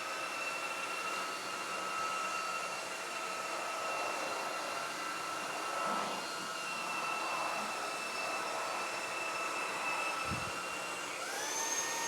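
Proscenic WashVac F20 cordless wet-dry floor cleaner running: a steady motor whine with several fixed tones as it makes a cleaning pass over the wet spills. Near the end, as the machine is switched off, the pitch rises slightly while it clears out anything caught up.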